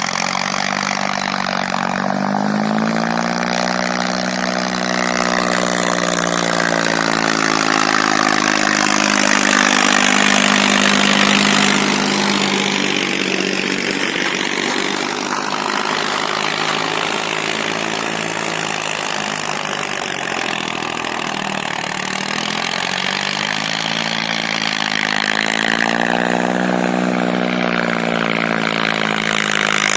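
Farmtrac 60 tractor's diesel engine working under load pulling an 18-tine harrow. Its revs rise a few seconds in, sag around the middle, and rise again near the end.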